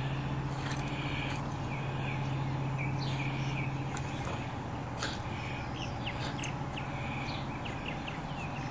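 Birds calling in short repeated chirps over a steady low hum.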